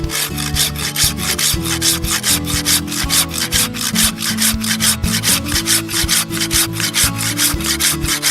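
A saw cutting through wood in quick, even strokes, about five a second, with background music underneath.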